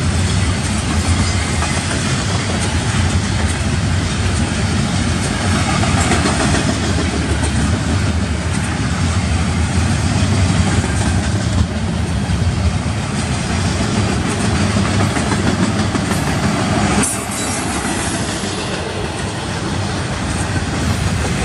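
Double-stack intermodal well cars loaded with shipping containers rolling past: a steady, loud rumble and rattle of steel wheels on rail.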